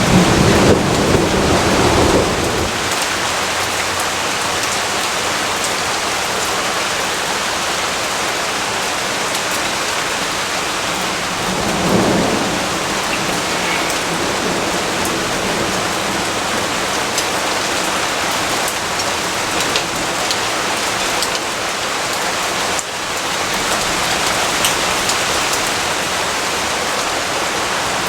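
Steady heavy rainfall, with thunder rumbling during the first two seconds or so and again, more briefly, about twelve seconds in.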